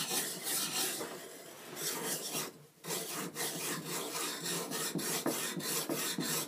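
Steel plane iron rubbed flat on its back across the coarse side of an oiled carborundum stone: a scratchy grinding in quick, even back-and-forth strokes, with a brief pause about two and a half seconds in.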